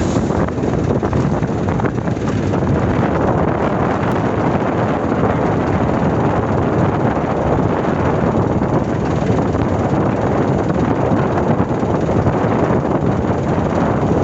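Wind buffeting the microphone over the steady rush of a rough sea at high tide.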